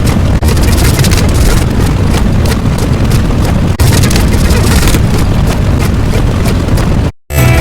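A loud, continuous, rumbling noise, heaviest in the bass, with two momentary dropouts; it cuts off suddenly near the end.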